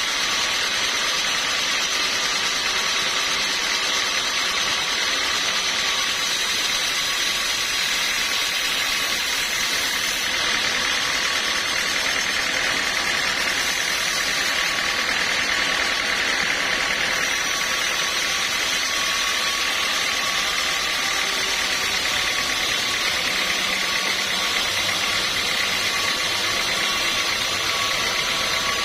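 Sawmill machinery running steadily: a constant mechanical whine over a wash of noise, with a low hum joining about three quarters of the way through.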